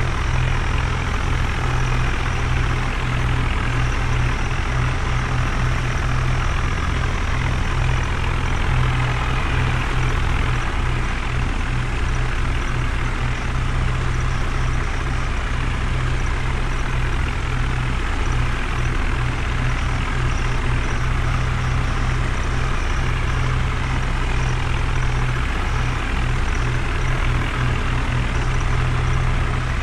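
Heavy diesel engine running steadily and loudly, with a constant low engine note.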